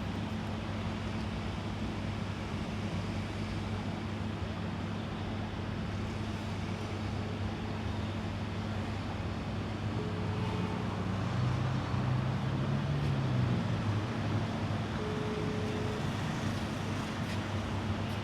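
Steady low hum of vehicle or road noise, with two short, faint tones about ten and fifteen seconds in.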